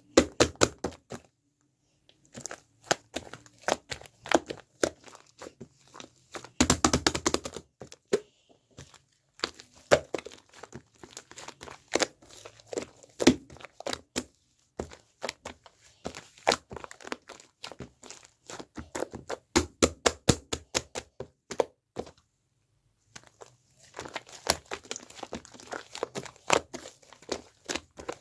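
Slime being squeezed and poked by hand, giving rapid crackling clicks and pops in several separate bursts, with short silent breaks between them.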